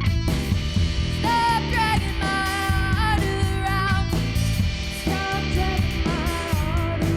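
Rock band playing live: a lead singer holds and bends sung notes over electric guitar and a drum kit.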